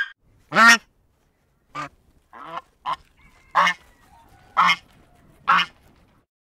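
Domestic goose honking: about seven separate short honks, the first, about half a second in, the loudest.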